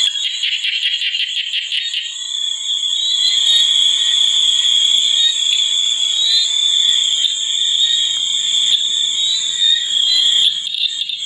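A night chorus of frogs and insects: a steady high-pitched trill throughout, with a rapid pulsing call for the first two seconds and short chirps scattered across it.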